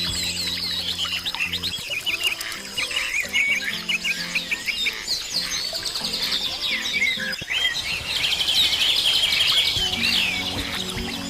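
Many small birds chirping and twittering at once, with a dense run of rapid trills a little past the middle. Soft background music with long held low notes plays underneath.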